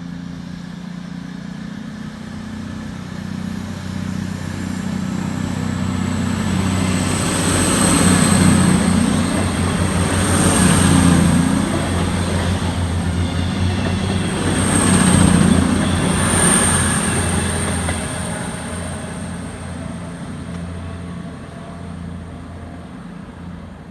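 Passenger train passing, building up over the first several seconds, loudest in two surges a little over a third of the way in and again past the middle, then fading away. Under it runs a steady low hum with a high thin whine above.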